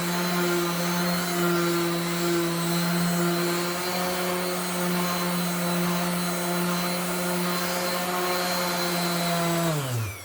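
Electric sander running steadily on wooden slats, then switched off near the end and spinning down with a falling pitch.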